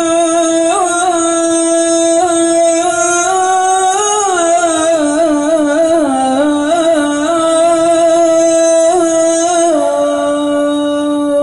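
Sala, the Islamic call for the dead, chanted by a single unaccompanied voice: long held notes with wavering ornaments, ending on a long held note near the end.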